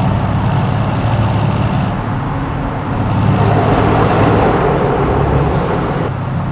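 Mercedes-AMG C63 S twin-turbo 4.0-litre V8 running while driving, with tyre and road noise. The engine note dips slightly about two seconds in, then swells again.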